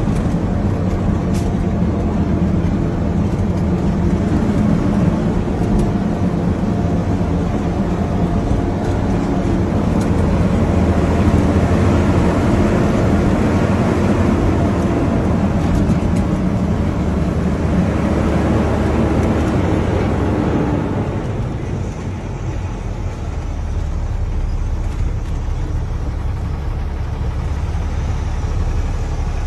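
Dump truck's diesel engine running steadily; about two-thirds of the way through it drops to a lower, quieter rumble like an idle.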